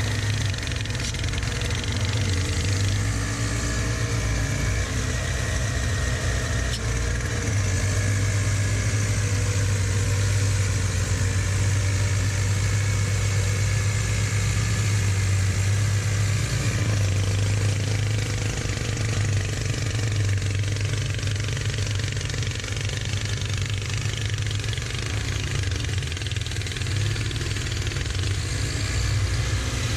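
Two-stage snowblower engine running steadily under load, with a steady rushing noise of snow being thrown over the engine hum.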